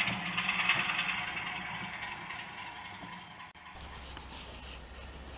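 OO gauge model train running on the track, a steady hum with a hissing rattle that fades and cuts off about three and a half seconds in, leaving quiet room tone with a few faint clicks.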